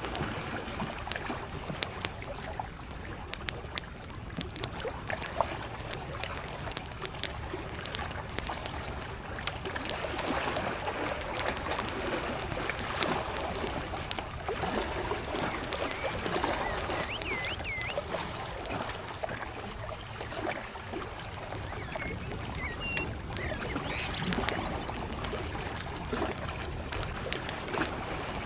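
Campfire crackling with frequent sharp pops over small lake waves lapping at the shore. A bird gives a few short whistled calls in the second half.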